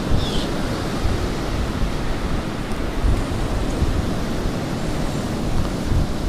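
Wind blowing over the microphone: a steady rushing noise with uneven low rumbling.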